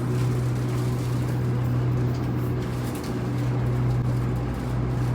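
Airport people-mover tram running, heard from inside the car: a steady low hum over even rolling noise.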